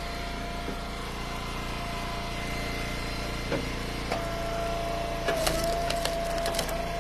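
Eastonmade Ultra wood splitter running steadily, with a few knocks, then a quick run of sharp cracks about five seconds in as a firewood round splits.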